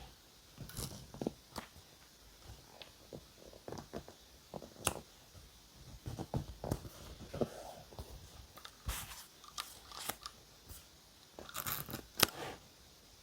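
Paper and stationery being handled close up: scattered crinkles, rustles and light clicks, with louder clusters of crinkling about nine seconds in and near the end, and one sharp click just before the end.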